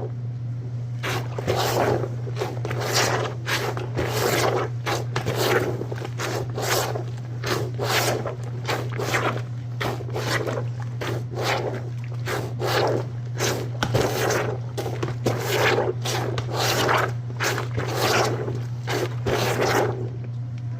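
washOTG hand-operated laundry plunger pumped up and down in a bucket of soapy water and towels, a wet swishing stroke about every two-thirds of a second, over a steady low hum.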